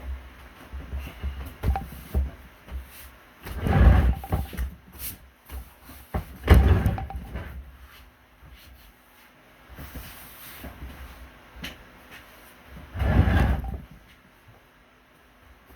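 Handling noises from close work: rubbing and knocking, with three louder dull bumps about four, six and a half and thirteen seconds in.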